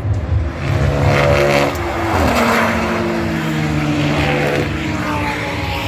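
GT race cars passing at speed, their engine note dropping in pitch as each goes by, twice in quick succession.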